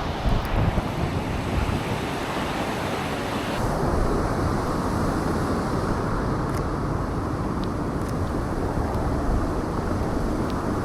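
Wind buffeting the camera microphone in a snowstorm: a steady rushing noise with a heavy, fluttering low rumble. The upper hiss drops away about three and a half seconds in.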